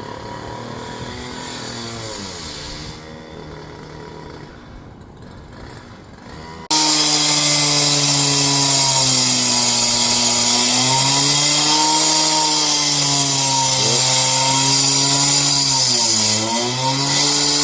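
A motor-driven power tool running, its pitch dropping and recovering again and again as it bogs under load and speeds back up. About a third of the way in it suddenly becomes much louder.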